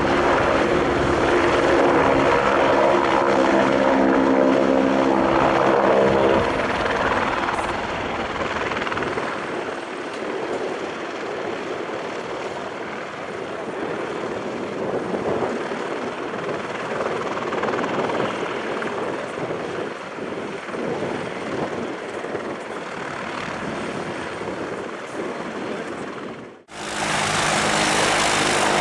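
Helicopter turbine and rotor running: a steady set of engine tones for the first few seconds, then a rougher, somewhat quieter running sound. Near the end the sound cuts abruptly to a different aircraft, a Piaggio P180 Avanti twin turboprop, with its own steady engine tones.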